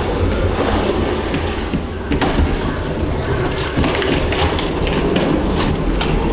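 Household vacuum cleaner running, with a steady rumbling noise and scattered clicks and knocks as it is pushed and handled.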